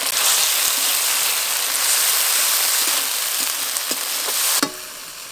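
Onions, tomatoes and freshly added garlic paste sizzling in hot oil in a metal kadai, with a few short knocks from stirring late on. The sizzle then falls away suddenly shortly before the end.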